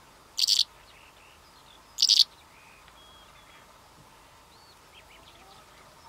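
Birds calling: two short, loud, rasping calls about a second and a half apart, then faint thin chirps and whistles.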